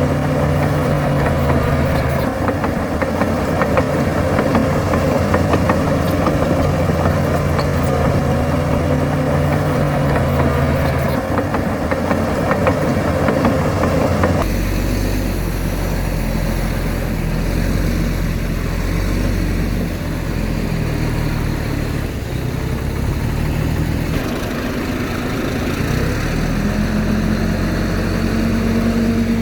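Heavy earthmoving machinery's diesel engine running steadily, with a clear engine hum. About halfway through, the sound switches abruptly to a deeper engine note.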